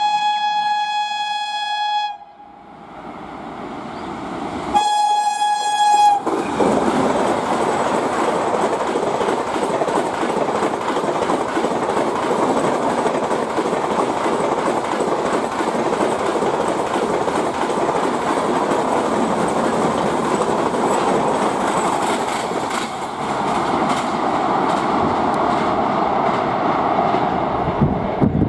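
Express train's horn sounding two blasts, one of about two seconds and a shorter one about five seconds in, then the train rushing past at speed with a continuous rumble and a rapid clatter of wheels over rail joints.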